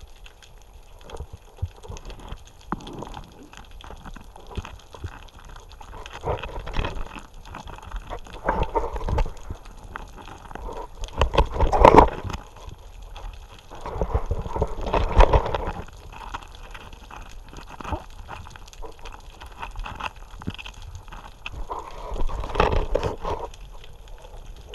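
Underwater gurgling and bubbling water with irregular knocks and clicks, as picked up by an underwater camera, swelling louder twice near the middle.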